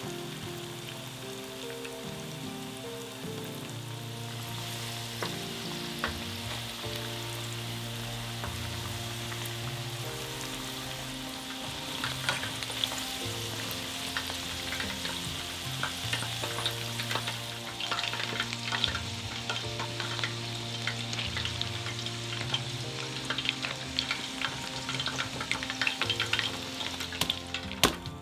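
Food frying in hot oil: a steady sizzle that grows more crackly about halfway through, with a few sharp knocks near the end. Soft background music plays underneath.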